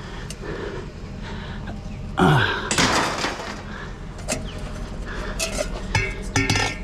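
Scrap being handled and dropped: a loud crash and clatter about two seconds in, then several sharp clanks that ring briefly, like metal pieces knocking together.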